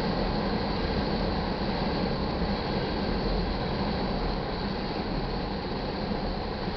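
Tank cars of a crude oil train rolling past, a steady rumble of steel wheels on rail.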